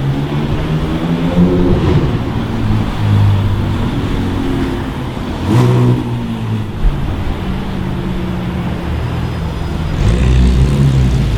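Supercar engine accelerating and revving, its pitch rising and falling several times, with a louder rev burst about halfway through.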